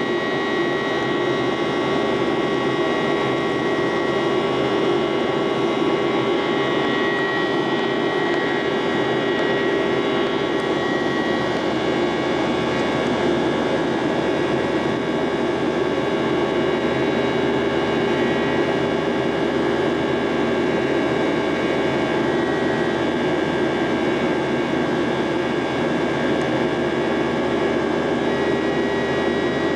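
CFM56-7B turbofan engines of a Boeing 737-800 heard from inside the cabin, running with a steady roar. High whine tones sit over the noise, and one of them fades and comes back.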